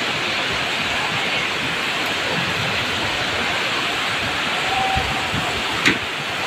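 Heavy rain falling steadily, an even hiss with no letup, with one sharp knock near the end.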